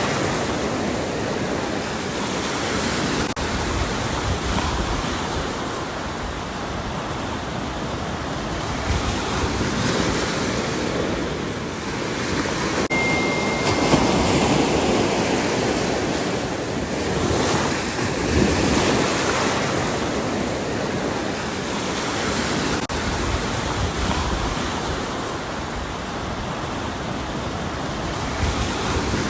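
Ocean surf: waves breaking and washing in a continuous rush that swells every few seconds. A brief faint high tone sounds about halfway through.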